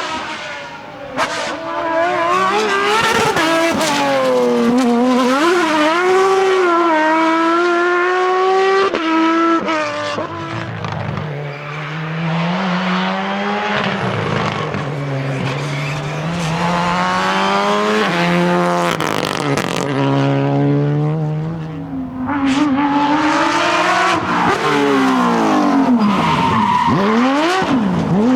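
Rally cars at full attack on a closed-road stage, engines revving hard and rising and falling in pitch through repeated gear changes and lifts, with sharp cracks and tyre squeal. Near the end a car sweeps past close by.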